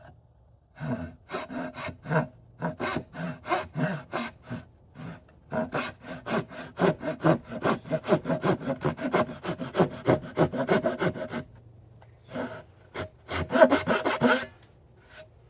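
Hand saw cutting a shallow kerf in a wooden panel held in a vise: quick, regular back-and-forth strokes, a brief pause, then a second short run of strokes. It is the start of a small groove meant to give the plow plane's blade a head start where it will not easily groove the end grain.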